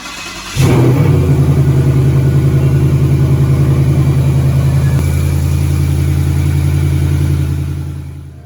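Car engine catching about half a second in and settling into a steady idle with a fast, even pulse to its exhaust note, fading away near the end.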